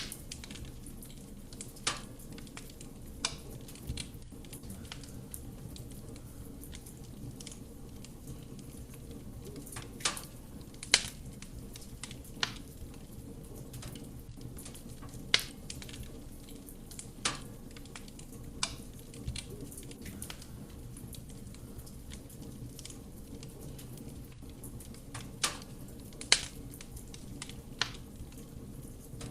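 Wood fire burning in a fireplace: a steady low rumble of flame under irregular crackles and pops from the burning logs, with a few louder sharp snaps.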